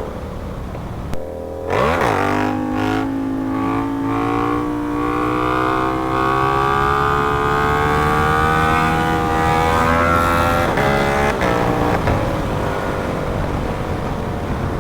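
Sportbike engine heard from the rider's seat under acceleration: a quick gear change about two seconds in, then a long, slow, steady climb in engine pitch, with a few more shifts and changes in the note near the end.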